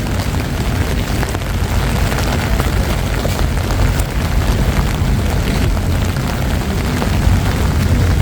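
Outdoor city ambience after rain: a loud, steady low rumble with a hiss over it and faint scattered ticks.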